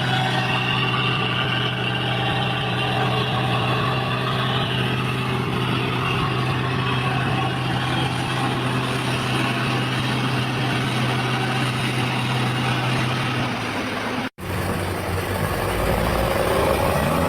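Heavy vehicle engine running at a steady speed. After a brief cut near the end, another engine is heard revving up.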